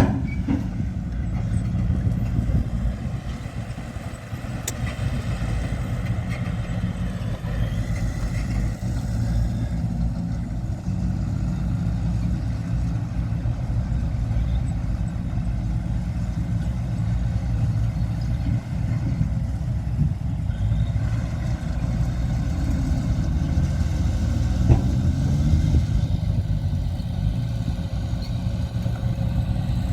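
Heavy earthmoving machine's diesel engine running steadily under load, a low continuous drone with small rises and falls.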